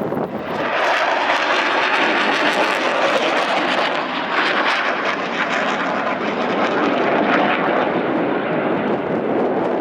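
F-16 fighter jet's single jet engine passing, a loud steady roar of engine noise that swells about half a second in and eases slightly near the end.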